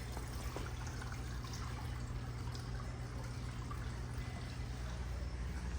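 Aquarium water bubbling and trickling steadily from the tank's air bubbler and filter, over a constant low hum.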